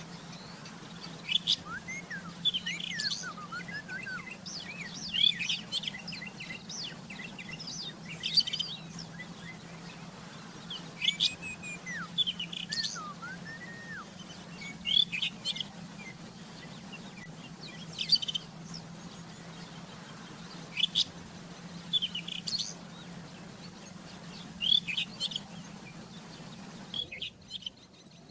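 Rufous-tailed scrub robin singing: short phrases of high chirps and looping whistles, about a dozen of them, each a second or less and spaced two to three seconds apart.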